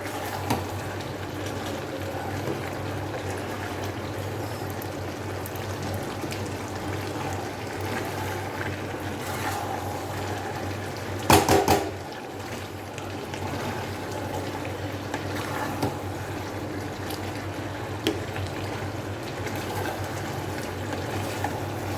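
Chicken curry sizzling and bubbling steadily in a pan as the meat braises down, over a low steady hum. A short cluster of loud knocks comes about eleven seconds in.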